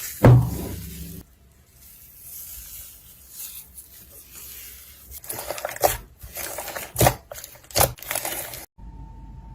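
Slime being pressed and squished by hand, with a heavy thump near the start and a run of crackles and sharp pops in the second half. Near the end the sound cuts off abruptly, and quick clicking over a steady hum follows.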